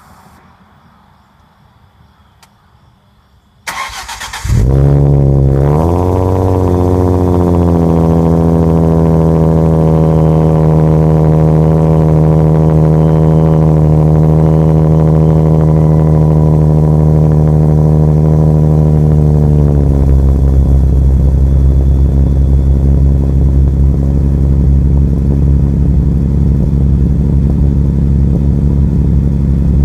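Ford Mustang 3.7 L Cyclone V6 through an aftermarket exhaust with shorty headers, X-pipe, Borla over-axle pipes and valved Varex mufflers, started after a brief crank about four seconds in. It flares on catching, settles into a fast idle that slowly eases down, then drops to a lower, deeper idle about 20 seconds in.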